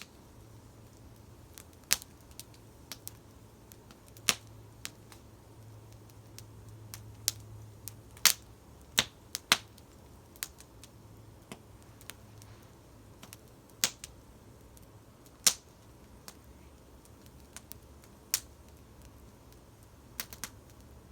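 Wood campfire crackling: sharp, irregular pops and snaps at uneven intervals over a faint low rumble of the burning fire.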